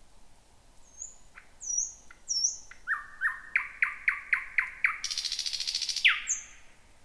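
Thrush nightingale singing one song phrase: a few high whistled notes, then a fast run of loud repeated notes at about five a second, a dry rattling trill about a second long, and a final sharp note.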